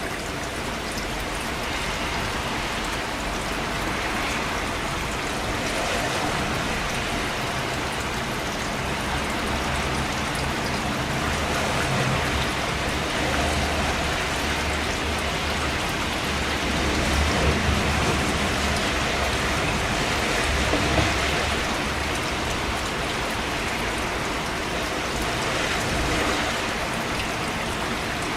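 Steady rainfall: a dense, even hiss of drops on surfaces, with a low rumble underneath that swells in the middle and eases off toward the end.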